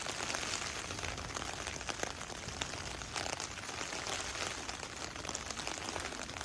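Heavy rain falling, a dense patter of many drops striking close by, with a low rumble of wind on the microphone underneath.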